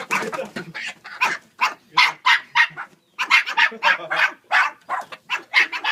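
A dog barking over and over in short, quick barks, about two or three a second, with a brief pause midway.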